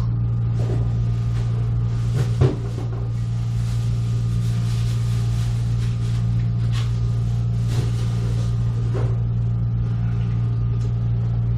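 A steady low mechanical hum, with a few light knocks and clicks over it; the loudest is a single short knock about two and a half seconds in.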